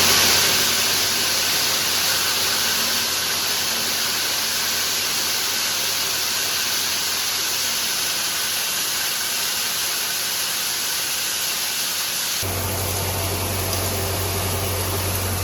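Steady, loud hissing rush with no clear pitch. About twelve seconds in, a low steady engine-like drone joins it.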